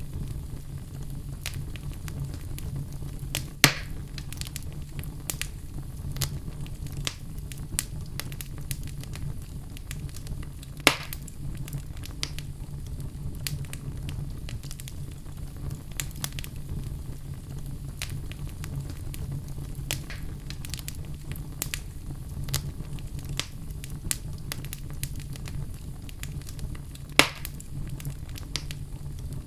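Wood fire in a fireplace crackling, with scattered clicks and three louder pops, over a low steady rumble.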